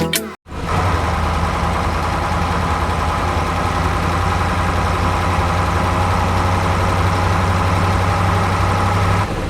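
An engine running steadily at an even speed, with a deep hum, starting about half a second in after the music cuts off.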